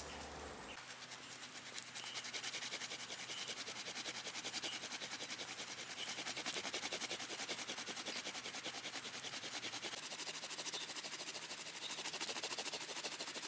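Bamboo rubbed rapidly back and forth against bamboo to make fire by friction: a steady, fast, even scratching rhythm.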